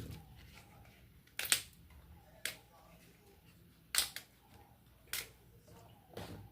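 Five sharp, irregularly spaced clicks or taps from kitchen utensils being handled while sugar is spooned over layers in a pan.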